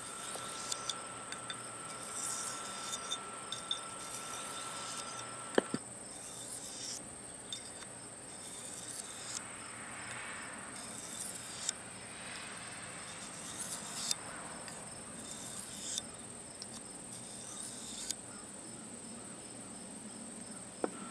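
Knife blade stroked along a hand-held scythe stone: soft scraping with a few sharp clicks, over a steady high chirping of crickets.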